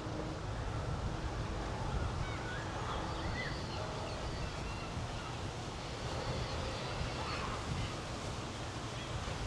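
Outdoor ambience: a steady low rumble of wind on the microphone, with faint short bird chirps now and then.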